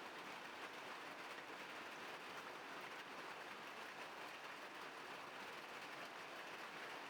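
Faint steady outdoor noise: an even hiss with no distinct events.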